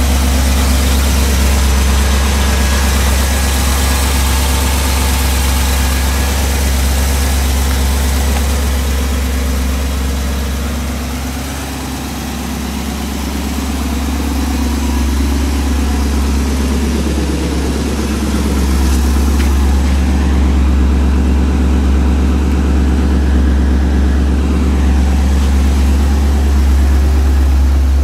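1964 Chevrolet Bel Air's engine idling steadily, a deep even rumble that dips briefly in level a little before halfway.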